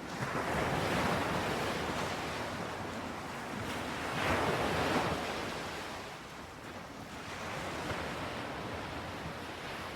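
Ocean waves washing onto a shore in steady surf, swelling twice, once near the start and again about four seconds in, and easing between.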